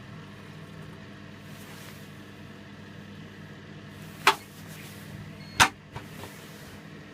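Electrolux W455H commercial washing machine running with a steady low hum, broken by two sharp clicks about four and five and a half seconds in, followed by a fainter click.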